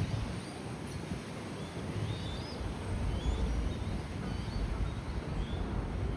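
Small birds chirping, short quick calls scattered throughout, over a low rumble that grows louder about two and a half seconds in.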